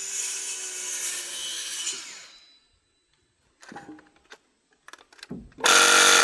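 Milwaukee cordless nail gun's motor whirring for about two seconds and winding down without driving a nail: the tool is failing to fire, which the user suspects is a jam. A few faint handling clicks follow, then a loud half-second rush of noise near the end.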